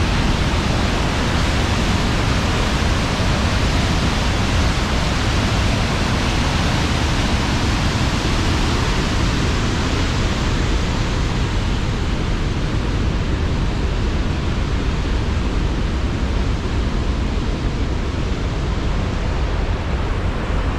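Tännforsen waterfall rushing: a loud, steady wash of falling water. Its hiss dulls slightly about halfway through.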